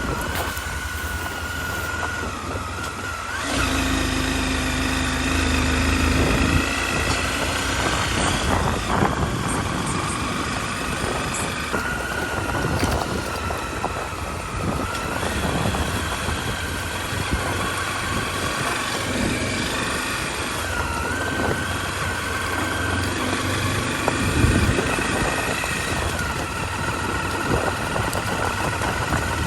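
Motorcycle riding along a gravel road: the engine running under way, its pitch rising and falling with speed, over a steady rush of noise from the ride on loose gravel.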